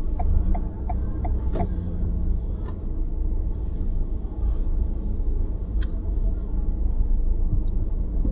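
Low, steady road and engine rumble inside a moving car's cabin. For about the first second an indicator ticks evenly, about three clicks a second, then stops.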